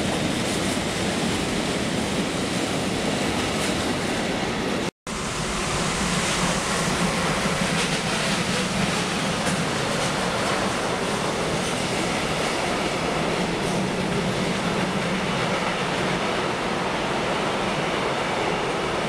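A train running past with a steady rolling noise of wheels on rail. The sound cuts out completely for a split second about five seconds in.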